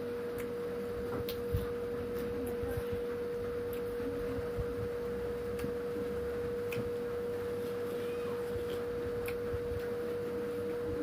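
A steady single-pitched hum, with faint short clicks scattered through it.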